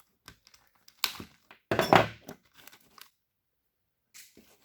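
Plastic loom and tape on a car engine wiring harness crinkling and tearing as they are pulled off by hand, with a sharp burst about a second in and a louder, longer one about two seconds in.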